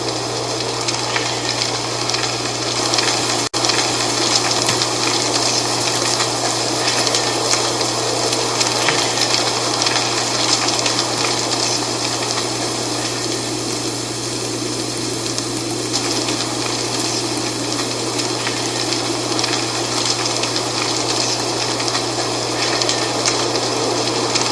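Dry fall leaves rustling in steady wind: a continuous hiss with faint scattered ticks of leaves. The sound cuts out for an instant about three and a half seconds in.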